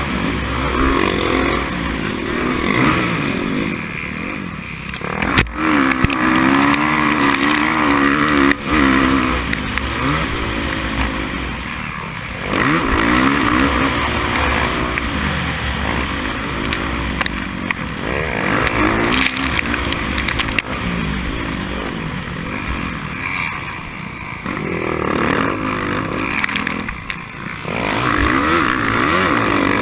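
Dirt bike engine racing, its pitch climbing and dropping again and again as the throttle opens and closes through the gears. Two sharp knocks come a few seconds in.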